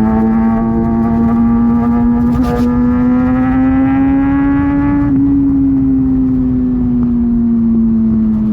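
Kawasaki Ninja ZX-6R inline-four running through an SC Project aftermarket exhaust at highway speed, revs climbing slowly under throttle. About five seconds in the throttle is rolled off and the engine note sinks as the bike decelerates, with wind noise underneath.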